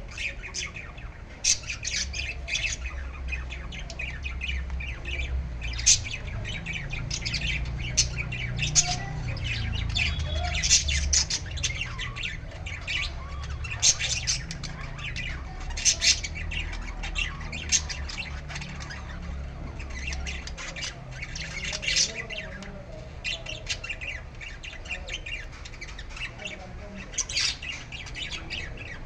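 Baby bird squawking in many short, harsh calls at an irregular pace, over a steady low rumble.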